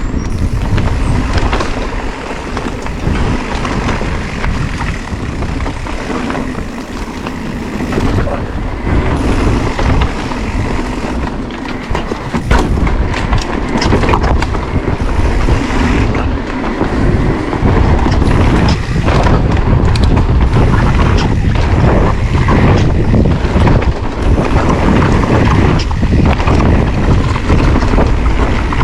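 Riding noise from an electric mountain bike on a woodland trail: wind on the action camera's microphone and tyre rumble, broken by frequent sharp knocks and rattles over rough ground.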